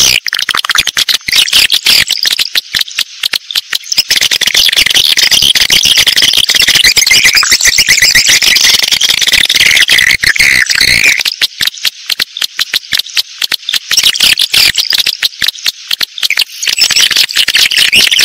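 Swiftlets twittering: a loud, dense, high-pitched chatter of rapid chirps and clicks, thickest through the middle. This is the kind of call recording played to lure edible-nest swiftlets into nesting houses.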